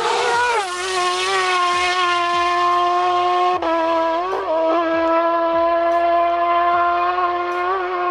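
Racing motorcycle engine held at high revs, giving a steady high-pitched note. The pitch drops once about half a second in, then holds level, with a brief break about three and a half seconds in.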